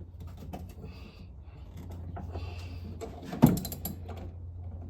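Metal clicks and clinks from a wrench working on a tight engine bolt, with one loud sharp clank about three and a half seconds in, as the bolt resists being broken loose. A low steady hum runs underneath.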